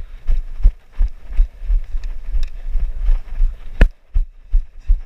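Running footsteps on field ground, with heavy, even thumps about three a second from the body-mounted microphone jolting at each stride. One sharp click near the end.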